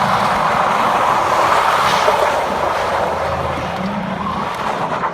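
Chevy Silverado 1500's 4.8-litre Vortec V8 at high revs, its note wavering, while the rear tyres spin and screech in a burnout; the sound eases off slightly near the end.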